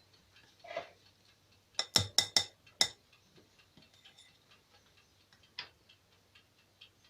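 A kitchen utensil knocking sharply against a bowl about five times in quick succession, about two seconds in, with a single softer knock before and another after and light taps and scrapes around them, as cake batter is poured and scraped into the tin.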